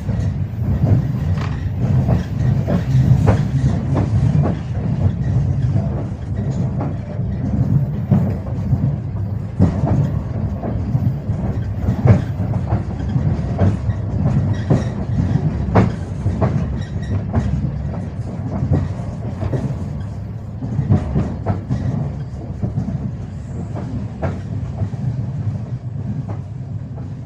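Passenger train wheels clattering over rail joints: a steady low rumble with irregular knocks, easing off in the last few seconds.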